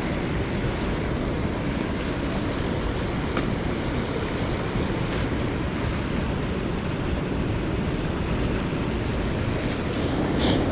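Mountain stream water rushing steadily, with a few faint ticks scattered through and a slightly louder one near the end.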